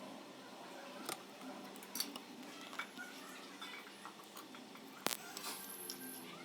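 Scattered light clicks and taps, the sharpest about five seconds in.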